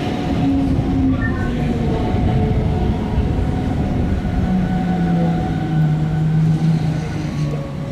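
Rhaetian Railway narrow-gauge train hauled by a Ge 4/4 III locomotive, heard from on board: steady running rumble of wheels on rail with several whining tones. In the second half the tones slowly fall in pitch as the train slows.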